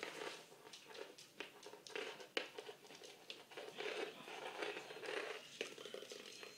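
A bit of tinfoil crinkling and tearing in irregular sharp crackles as a parrot bites at it.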